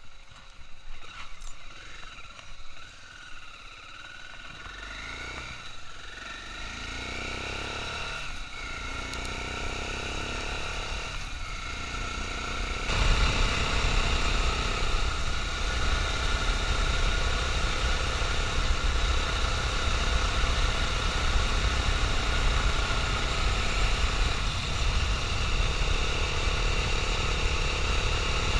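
Dual-sport motorcycle engine pulling away, its pitch rising again and again as it shifts up through the gears. About thirteen seconds in it turns into a sudden, louder, steady rush of riding at speed.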